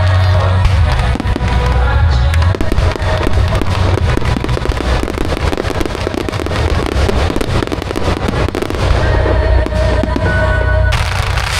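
Fireworks crackling and bursting in rapid, dense succession, over loud music played through speakers.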